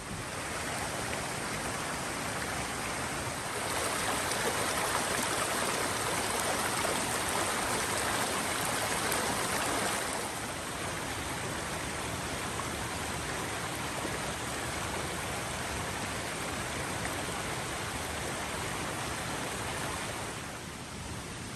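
Steady rain, an even rushing hiss that gets louder about four seconds in and drops back about ten seconds in.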